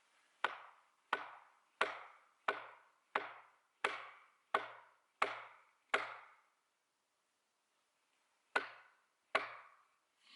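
Axe chopping into an oak log, carving a guide line along it for the split: nine evenly paced strikes about two-thirds of a second apart, a pause, then two more strikes near the end.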